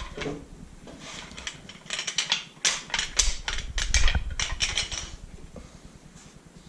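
Rapid metal clinks and clanks of hand tools and engine parts being handled, busiest through the middle few seconds, then dying down.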